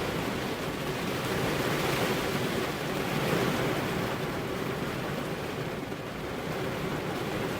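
Steady heavy rain, an even hiss with a full low rush, swelling slightly about three seconds in and easing a little near the end.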